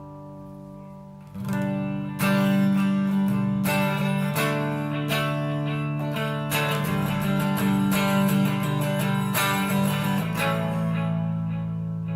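Electric guitar played through a Vox AD30VT hybrid valve amplifier, gain off, with its delay effect on: strummed chords begin about a second and a half in and ring on, fading near the end.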